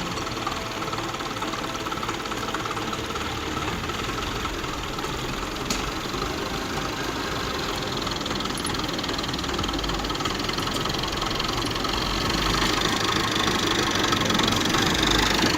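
Engine of a heavy-duty machine running steadily, growing somewhat louder toward the end, with one brief click about six seconds in.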